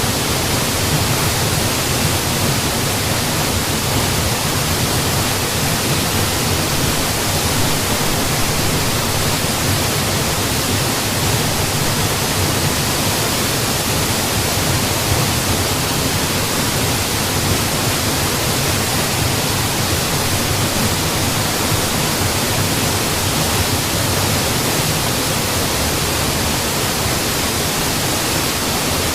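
Waterfall: water falling and crashing as a loud, steady rushing roar, with no changes.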